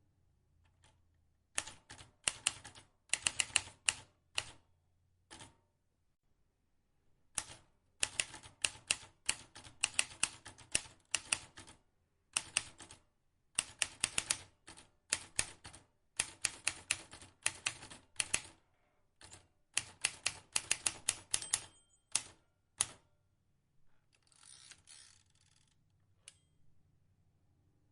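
Vintage manual typewriter keys struck in quick runs of sharp clicks, several a second, broken by short pauses. Near the end there is a brief softer noise without clicks.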